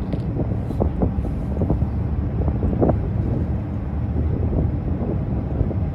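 Wind buffeting the microphone outdoors, a steady low rumble with gusty swells.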